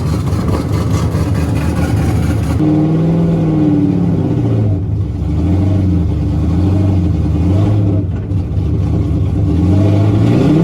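Drift car engine revving hard. The first couple of seconds are a dense noisy rush; then, after an abrupt change, the engine's pitch rises and falls repeatedly as the throttle is worked on and off, climbing again near the end.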